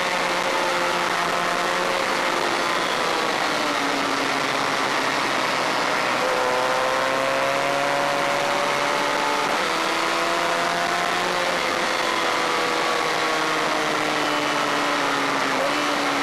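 Honda VFR400 race bike's V4 engine at speed on track, its note climbing and falling and jumping in steps at gear changes several times, over a steady hiss of wind noise.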